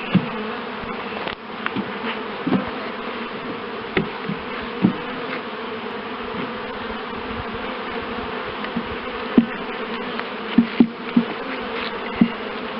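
A honeybee colony buzzing steadily in an opened hive, with scattered light clicks and knocks throughout.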